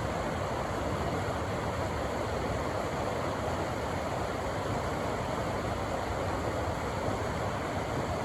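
River water rushing steadily through a canyon: an even, unbroken roar of fast-flowing water.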